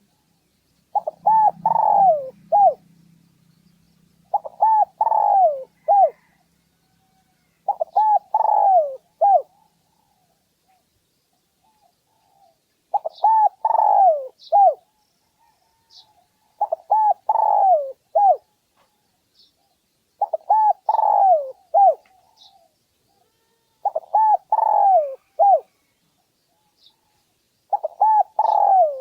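Spotted dove (Streptopelia chinensis) cooing: eight phrases, one about every three and a half seconds, each a quick run of three or four arching coos. It is the call used as a lure to draw wild males in to fight. A faint low hum sounds under the first few phrases.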